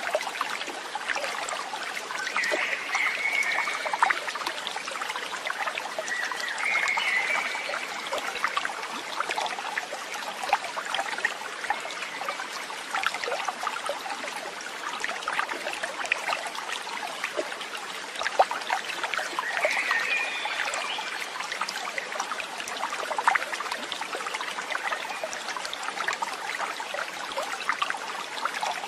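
Running water trickling and splashing steadily, like a small stream, with a few brief high tones over it, two near the start and one about two-thirds of the way through.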